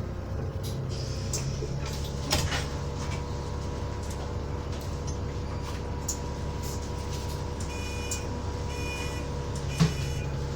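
Alexander Dennis Enviro400 double-deck bus running at a steady engine note with a constant whine, a knock about two seconds in, and a series of high electronic beeps from about eight seconds, with a short thud near the end.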